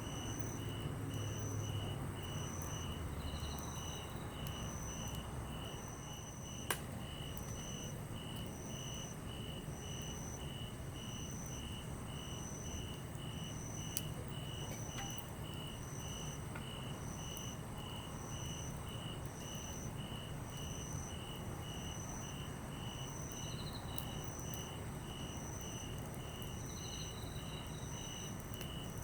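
Insects chirping steadily at night in two even rhythms, a faster lower chirp and a higher, slower one, over the low rumble of a campfire with two sharp wood pops.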